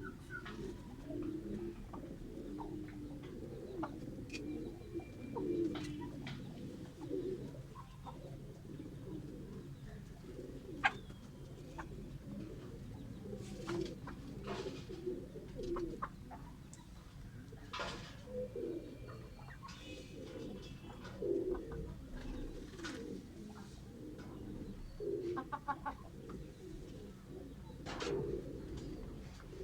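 Many low bird calls repeating throughout, with scattered short clicks.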